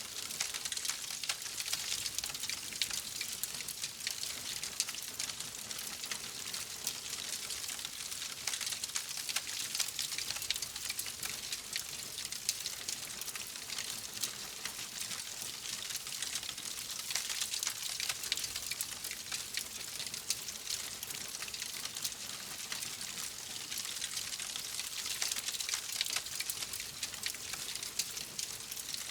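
Wood fire crackling steadily: a constant soft hiss thick with small, rapid pops and snaps.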